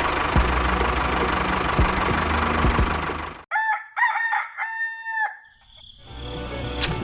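A small motor runs with a steady hum and rattle, then cuts off abruptly. A rooster crows once, a single long call, and the motor hum gradually returns near the end.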